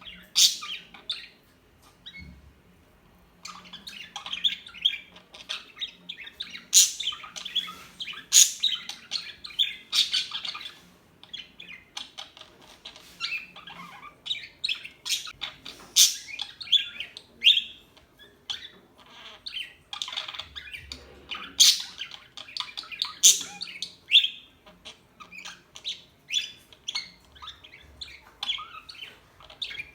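Pet budgerigars chirping and squawking, a dense run of short, sharp, high calls with a brief lull about two seconds in.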